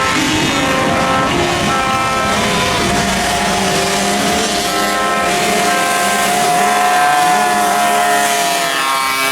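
Several motocross bike engines running at once, their pitches rising and falling as the riders work the throttles.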